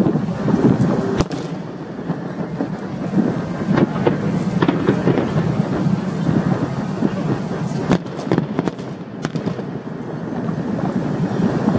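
Aerial fireworks going off in quick succession, a dense run of crackles and pops, with sharp bangs about a second in and about eight seconds in.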